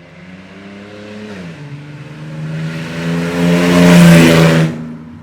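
Naturally aspirated Ford Barra inline-six with its exhaust snapped off behind the headers, so it is effectively straight-piped, accelerating hard past in a flyby. The engine note drops briefly at a gear change about a second and a half in, then climbs to a very loud peak and cuts off sharply near the end as the throttle closes.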